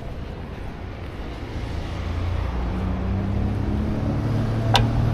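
An engine running with a low, steady hum that grows louder over the second half, with a sharp click near the end.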